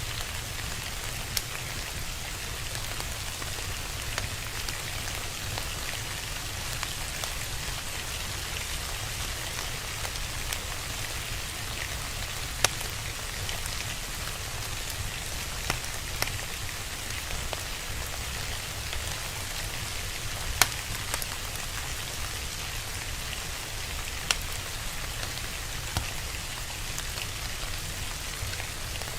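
Steady rain falling, with a fire crackling: sharp single pops come every couple of seconds at irregular intervals over the continuous patter.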